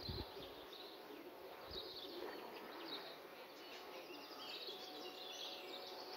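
Faint outdoor background with small birds chirping now and then, short high calls scattered throughout.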